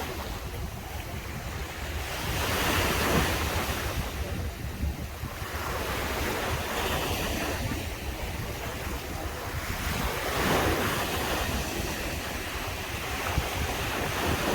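Caribbean Sea waves breaking on the shore in a continuous wash of surf, swelling louder as a wave breaks about three seconds in, again around ten seconds, and once more at the end.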